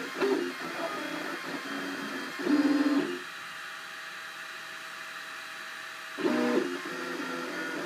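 Cubify 3D printer's stepper motors whining in shifting tones as the print head moves. There are louder bursts about two and a half seconds in and again about six seconds in, and between them a quieter, steady whine for about three seconds.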